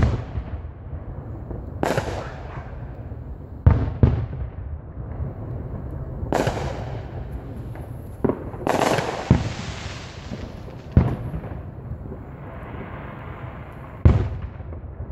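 Aerial fireworks shells bursting overhead: about nine sharp booms at irregular intervals, one or two seconds apart. One burst about nine seconds in is followed by a longer crackling hiss.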